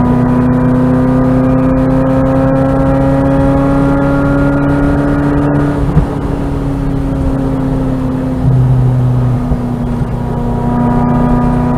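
Ferrari 348's V8 with an MS Racing aftermarket exhaust, running loud under load. Its note climbs slowly, drops a little with a sharp click about halfway through, then picks up again near the end.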